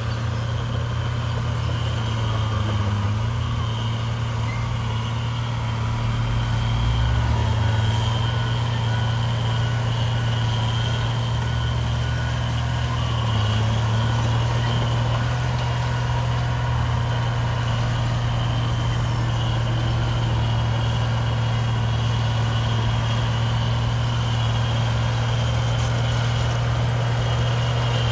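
Heavy diesel engines of construction machines running steadily at an even low pitch, with a thin high whine above them.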